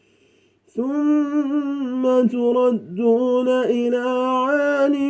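A man's voice reciting the Quran in melodic tajwid chant, starting about a second in with a long held, ornamented note that wavers in pitch, drawn out with two brief breaks.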